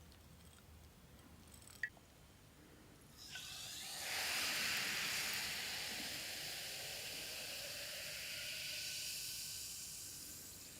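A steady hiss of a spray or compressed-air jet starts about three seconds in and carries on, easing slightly near the end. It is preceded by a single sharp click.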